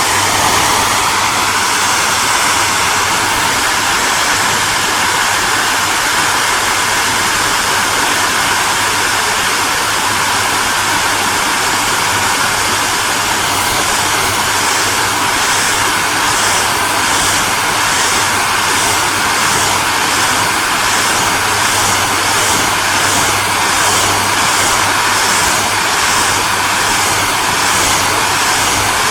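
Hairdryer running continuously on a steady setting: a loud, even rush of blown air over a low motor hum. From about halfway through, the high hiss takes on a faint regular pulsing, a little over once a second.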